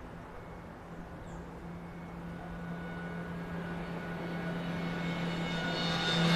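Beechcraft B200 Super King Air's twin PT6A turboprop engines: a steady low drone with a high turbine whine, growing steadily louder.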